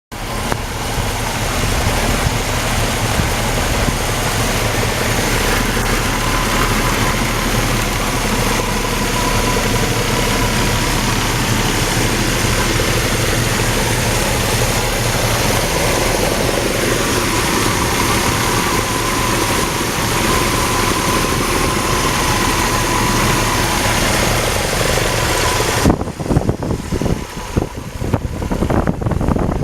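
1976 Chevrolet Stepside pickup's engine running at idle, steady for most of the time. About 26 seconds in the sound abruptly thins out and turns uneven and fluctuating.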